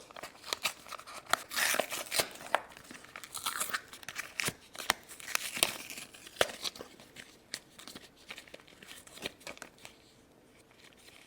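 Shopkins Basket Surprise toy packaging being torn open and crinkled by hand: irregular tearing and crackling rustles, busiest in the first two-thirds and thinning out towards the end.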